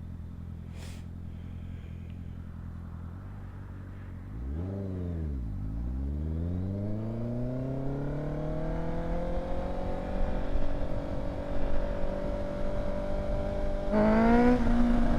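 Honda CBR650's inline-four engine through an aftermarket exhaust. It runs steadily, dips about four seconds in, then rises smoothly in pitch as the bike accelerates and levels off. A louder burst comes near the end.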